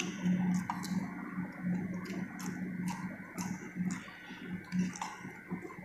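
Close-miked chewing of fresh arugula leaves: irregular crisp crunches and wet mouth clicks, over a low steady hum.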